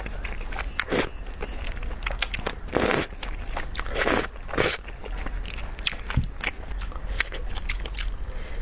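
Close-miked eating sounds from a bowl of thick malatang: wet chewing and biting with many small mouth clicks, and several louder noisy bursts about one, three and four and a half seconds in.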